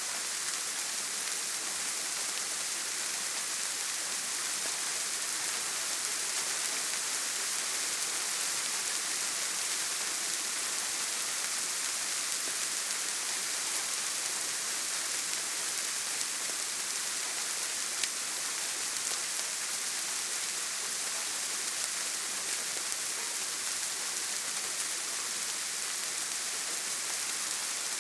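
Steady heavy rain on a tin roof, an even hiss with one sharper drop tick about eighteen seconds in.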